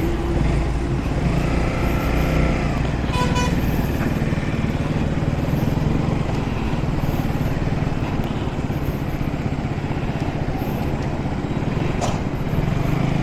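Motorcycle running at steady road speed, its engine hum under steady wind and road noise. A short high tone sounds about three seconds in.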